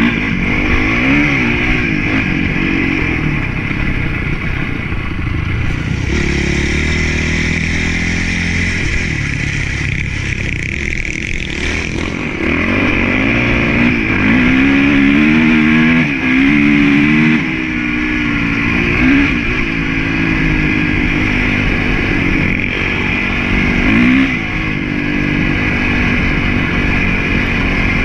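Honda CRF450 single-cylinder four-stroke motocross bike engine under way, revving up and down again and again as the throttle opens and closes, with louder bursts in the second half.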